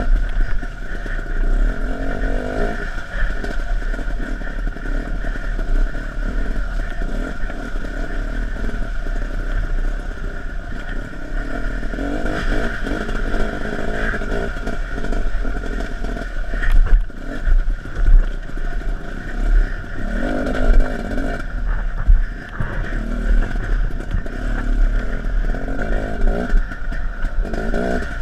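Off-road dirt bike being ridden, its engine running continuously. The revs rise and fall, with louder surges a little past the middle.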